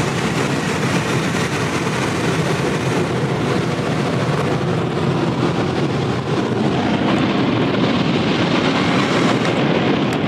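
Automatic drive-through car wash equipment working over the car, heard from inside the cabin: a steady, loud rushing noise that gets a little brighter in its upper range about two-thirds of the way through.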